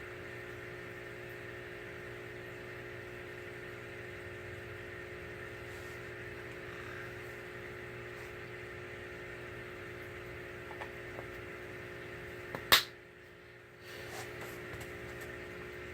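Steady room hum with several fixed tones, like a fan or air conditioner running. Two faint ticks, then one sharp loud click about three-quarters of the way through, after which the hum dips for about a second.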